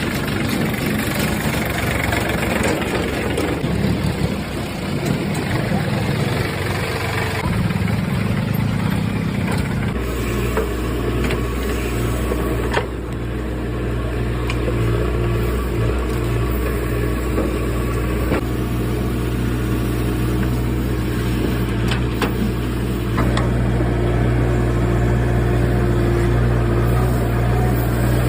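Diesel engine of an excavator running. It is rough and noisy for about the first ten seconds, then settles into a steady low drone, with a few sharp knocks along the way.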